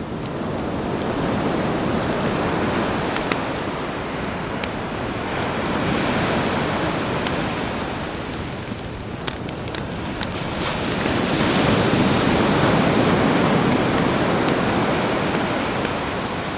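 Sea waves washing onto the shore, swelling and receding in three slow surges, with the scattered pops and crackles of a campfire over them.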